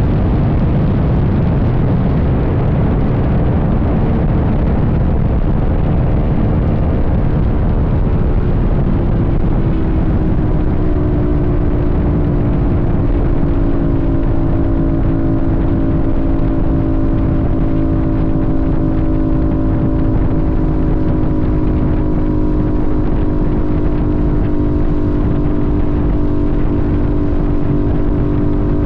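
Sportbike engine running on the move with strong wind rush. About a third of the way in, the engine note eases slightly lower, then holds one steady pitch.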